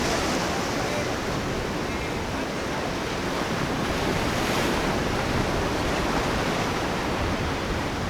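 Rough surf: waves breaking and rushing in a steady roar, with wind on the microphone.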